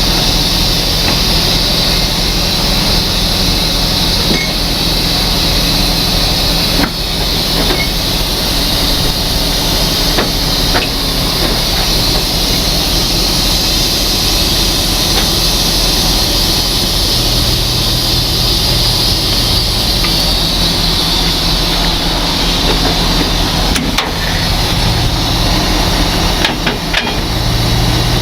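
A heavy truck's diesel engine running steadily under a loud, even hiss, with a few sharp clicks scattered through.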